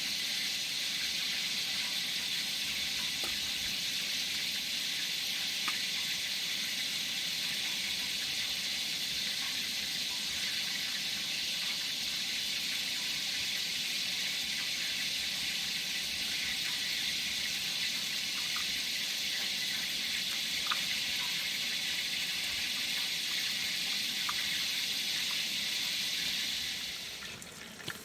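Water running in a steady rush that cuts off near the end.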